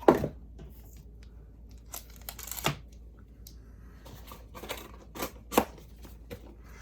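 Trading card pack wrappers crinkling and rustling as the packs are handled, in a series of short crackles.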